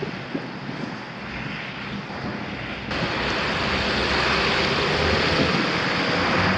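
Strong blizzard wind blowing a steady noisy rush over the microphone, stepping up abruptly to a louder, brighter rush about three seconds in.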